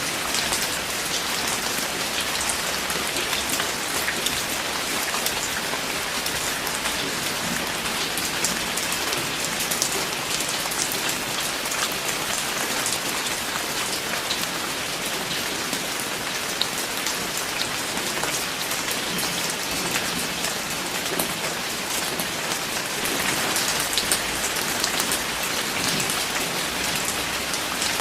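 Steady rain falling, with dense individual drops pattering on a surface.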